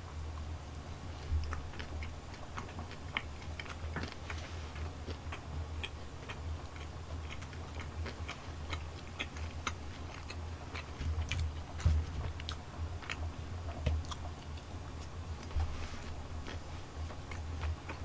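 Chewing of sticky sauced boneless fried chicken: wet mouth smacks and small crunches, scattered clicks a few times a second, over a low steady hum.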